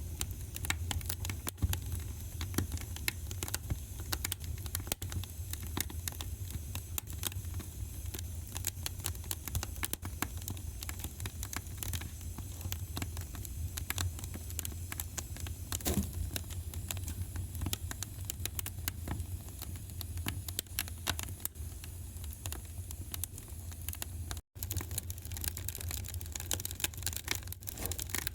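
Fire crackling in a fireplace: dense, irregular pops and snaps over a steady low rumble. The sound cuts out for a split second near the end.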